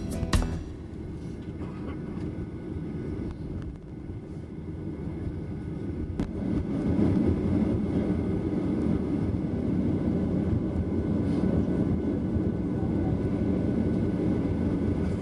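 Boeing 737-800 jet taxiing: a steady low rumble of its turbofan engines that swells about four to seven seconds in, then holds.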